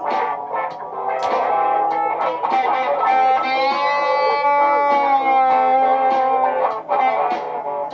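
Layered electric guitar loops playing together, with plucked notes over a looped bed. A long sustained guitar note, rich in overtones and bending slightly in pitch, is held from about three seconds in until near the end.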